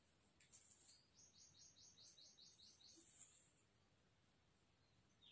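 Faint bird calling over near silence: a quick, even series of about nine short, high, falling notes from about a second in. Two brief scratchy hisses, one just before the notes and one as they end, are the loudest sounds.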